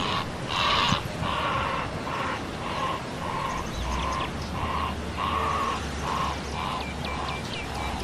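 A bird calling in a steady series of short notes, about two a second, with thin high chirps from a second bird about halfway and near the end.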